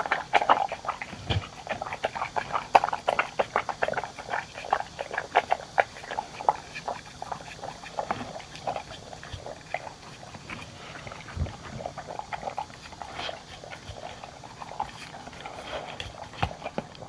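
Dogs eating: a rapid, irregular run of wet chewing and licking clicks, busiest in the first half and thinning out later.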